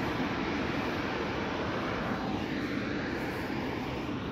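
Electric train passing through the station: a steady rumble of wheels on the rails, with a sweeping change in tone about halfway through as it goes by.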